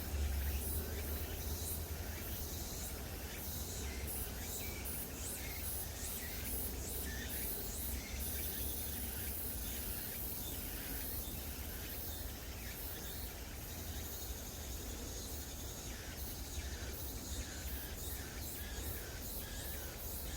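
Outdoor chorus of insects calling in fast, repeated high-pitched pulses, over a low rumble of wind on the microphone.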